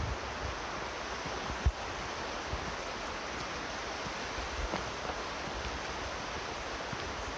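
Steady rushing of a flowing creek, with a few low thumps and one sharp click about a second and a half in.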